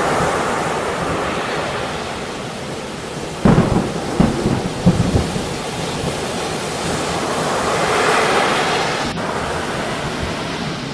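Steady rain with thunder: a sudden crack about three and a half seconds in, followed by a few low rumbling rolls. The hiss swells again near the end.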